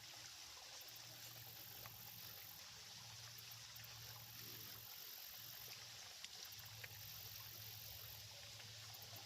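Faint small creek water running steadily, with a few light clicks, and a high hiss that comes and goes every couple of seconds.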